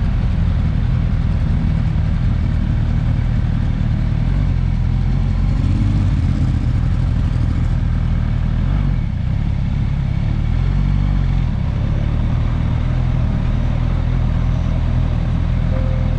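Motorcycle inline-four engine running at low, fairly steady revs, picked up by an on-board camera. The engine note shifts briefly around six seconds, and again between about nine and eleven seconds, where it also dips a little in loudness.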